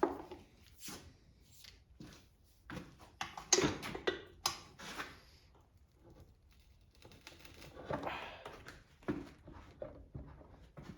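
Scattered clicks, taps and knocks of hand tools and small-engine parts being handled on a workbench, with a busier cluster a few seconds in and a short rustling scrape about eight seconds in.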